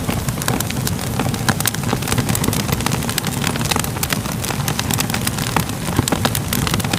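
Crackling fire ambience: a steady low roar of burning with frequent, irregular sharp pops and snaps from the wood.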